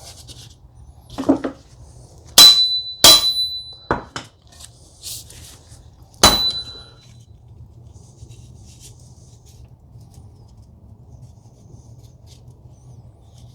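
Hammer taps driving a transmission half-shaft seal into its bore: three sharp, ringing metal strikes and a few lighter knocks in the first seven seconds, then a faint low hum.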